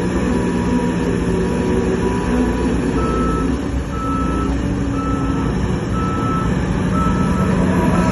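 Heavy diesel machinery running steadily. About three seconds in, a reversing alarm starts beeping, roughly one beep a second.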